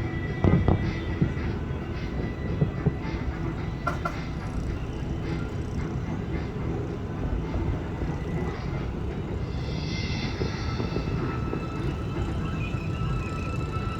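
Fireworks going off in a continuous low rumble of booms, with a few sharper bangs in the first three seconds, over show music playing on loudspeakers.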